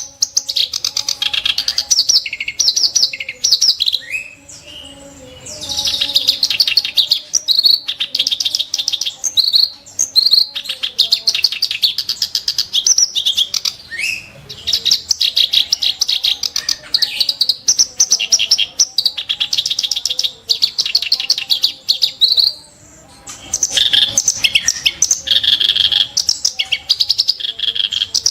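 Kerak basi (reed warbler) singing a fast, harsh chattering song of rapidly repeated notes and sharp bursts, broken by two short pauses.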